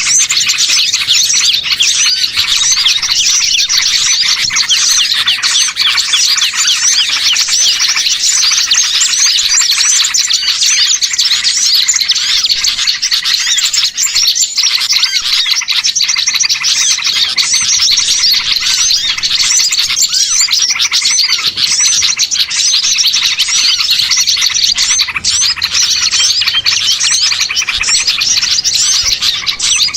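Dense chorus of many small birds chirping and twittering without a break: a mixed small-bird lure recording ('pikat burcil') used to draw wild birds in.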